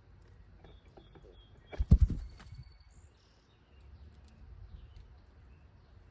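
A brief cluster of loud, low thumps and knocks about two seconds in, with a few faint, thin, high bird chirps around it.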